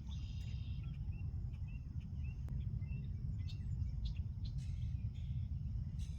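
A bird chirping in a quick series of short calls over a steady low rumble.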